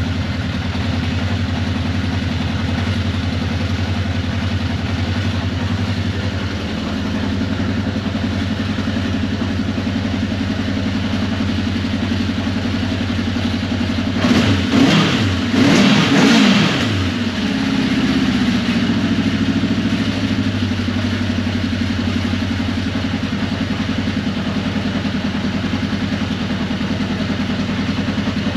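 1981 Honda CB750C's air-cooled inline-four engine idling steadily, with two quick throttle blips about halfway through.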